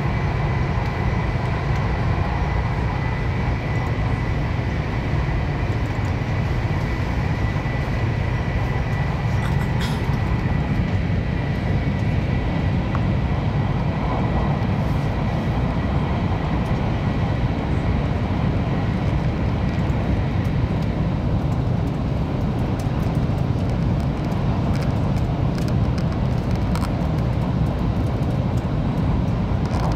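Steady running noise inside the passenger cabin of a THSRC 700T high-speed train in motion: a continuous low rumble with a faint, steady high whine that fades about two-thirds of the way through.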